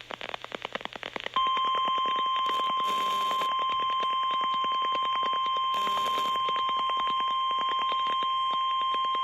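NOAA Weather Radio warning alarm tone: a single steady high-pitched tone near 1 kHz that comes in about a second and a half in and holds, announcing a warning broadcast. It plays through a receiver's speaker with crackling static and distortion under it, and only static before the tone starts.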